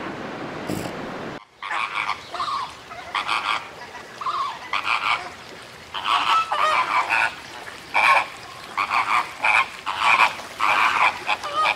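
A flock of geese honking: many short, repeated calls, some overlapping, begin after an abrupt cut from a rushing noise about a second and a half in.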